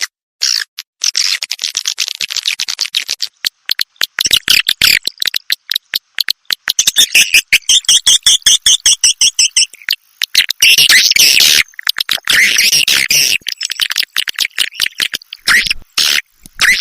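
Swiftlet calls: a dense stream of high chirps and rapid clicking trains, with a stretch of fast, evenly repeated chattering from about seven to ten seconds in.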